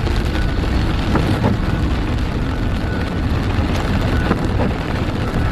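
Car driving on a wet road in the rain, heard from inside the cabin: a steady low rumble of road and engine noise with a hiss of rain and spray.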